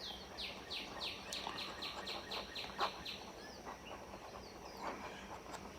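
A bird singing: a rapid series of about a dozen short falling notes, roughly four a second, lasting about three seconds, then a few fainter calls.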